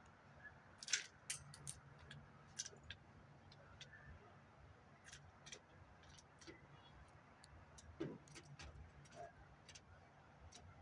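Birds at a feeder pecking and hopping: irregular faint clicks and taps, with a sharper tap about a second in and a dull thump about eight seconds in.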